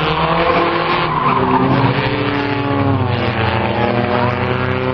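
Several race car engines running on the track, their pitch rising and falling as they rev, with tires skidding.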